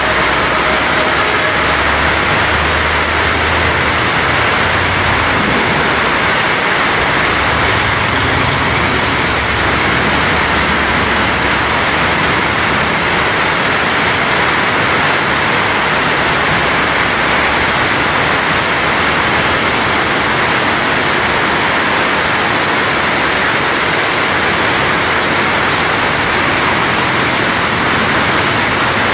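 Heavy rain pouring down, a loud steady hiss, with a low rumble during the first several seconds.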